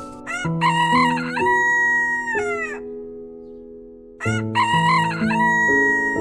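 A rooster crowing twice, each crow about two seconds long and falling away at its end, over background music with sustained low notes.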